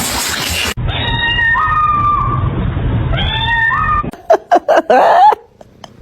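Cats meowing: two drawn-out meows over a steady low hum, then, from about four seconds in, a quick run of short, loud meows.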